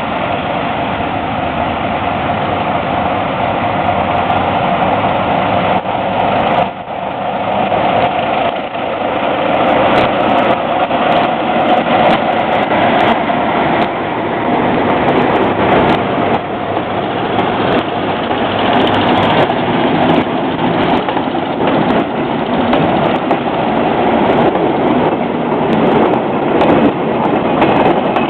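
Commuter train pulling out of a station: a steady engine and running noise, with wheel clicks over the rail joints coming faster as it gathers speed.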